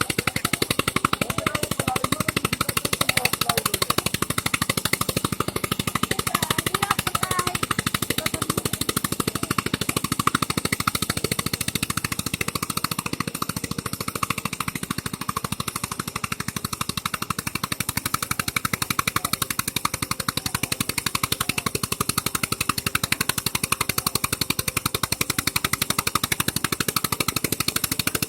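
Eicher 242 tractor engine running steadily, its exhaust pulsing in a fast, even beat.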